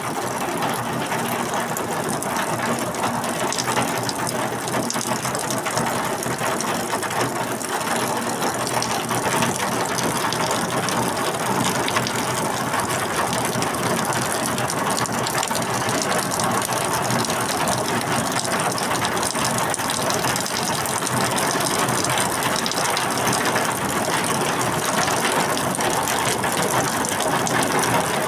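Steady rain falling, a dense, even patter of drops striking a surface.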